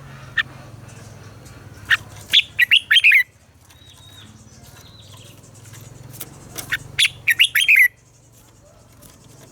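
Red-whiskered bulbul singing: two loud phrases of quick, sweeping whistled notes, the first about two seconds in and the second about six and a half seconds in, with a single short note near the start. A faint steady low hum runs underneath.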